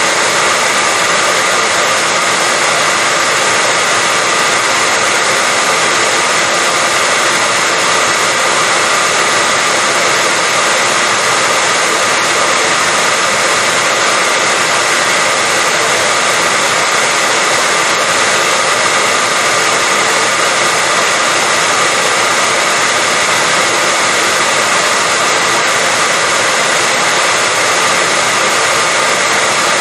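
Hair dryer running steadily: an even rush of air with a steady whine from its motor, unchanging in speed and level.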